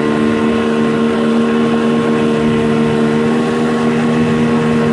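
Small 8-horsepower boat motor running with a steady, even drone, straining to push the boat against a strong current.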